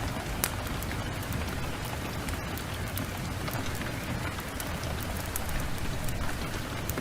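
Steady rain mixed with a crackling wood fire: an even hiss with scattered sharp pops, the loudest about half a second in.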